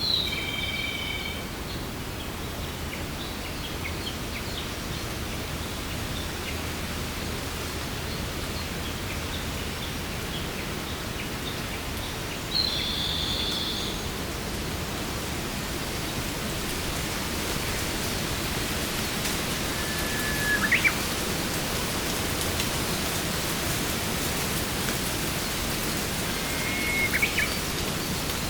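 Steady rushing water noise, growing brighter and hissier over the second half, with a forest bird giving four short calls: one at the start, one a little before the middle, and two quick rising calls near the end.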